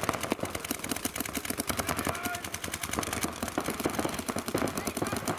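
Paintball markers firing in rapid strings, several guns shooting at once, with many sharp shots a second.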